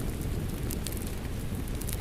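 Steady rain mixed with a crackling wood fireplace: a constant hiss and low rumble, with sharp crackles popping out of it every so often.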